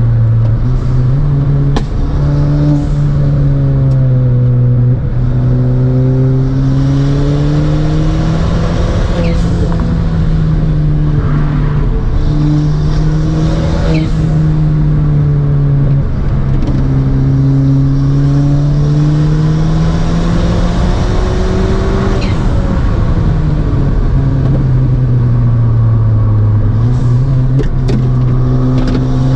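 Stage 3 tuned Ford Fiesta ST's turbocharged four-cylinder engine pulling hard and easing off along a winding road, heard from inside the cabin. Its pitch climbs and falls over and over with throttle and gear changes, with a few short sharp sounds along the way.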